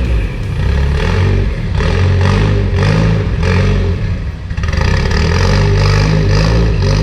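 Nissan S14's turbocharged SR20 four-cylinder engine running, its revs rising and falling unevenly.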